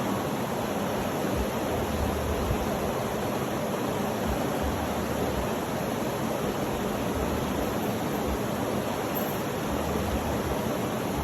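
Steady, even rushing noise of a sleep-sound track, with no breaks or changes in level.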